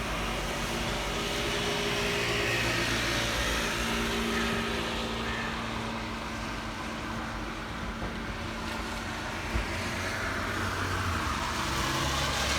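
Car on the road: steady engine hum and tyre noise, with the engine note shifting now and then.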